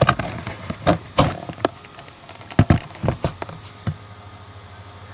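Knocks and clunks as the Cooper Cyclo-Vac mower is handled and pull-started, then about four seconds in its 3.5 horsepower engine catches and runs with a steady, evenly pulsing hum.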